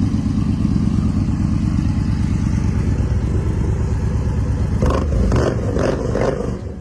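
A Victory V-twin motorcycle engine running with a loud, steady low pulse. About five seconds in, it is revved in a few quick throttle blips, then the sound falls away near the end.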